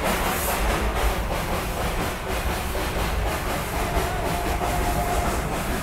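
Darjeeling Himalayan Railway steam-hauled toy train coach rolling along the track, heard at the open window: a steady rumble with wheel clatter and hiss as the train pulls away from a halt.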